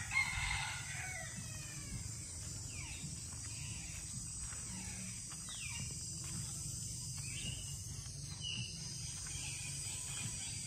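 Caged birds calling: a loud, harsh squawk in the first second, then scattered short calls that sweep downward in pitch, over a steady high hiss.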